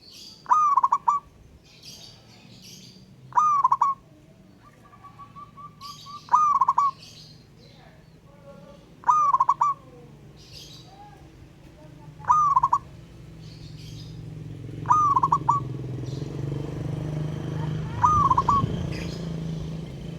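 Zebra dove (perkutut) cooing: a short, trilled phrase repeated about every three seconds, seven times. Fainter high chirps from smaller birds come in between, and a low hum grows louder near the end.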